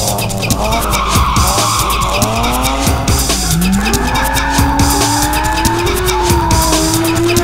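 Car engine revving hard while the tyres squeal as the car slides sideways in a drift. The engine note drops over the first few seconds, then climbs and holds high.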